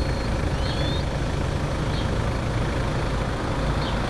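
Car driving on a road: a steady rumble of engine and road noise.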